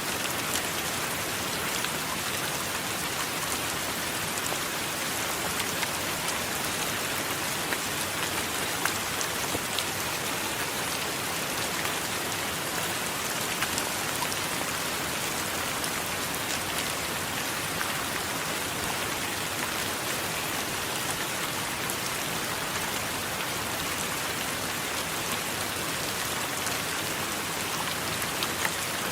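Steady heavy rain falling, an even hiss with many small drop patters throughout.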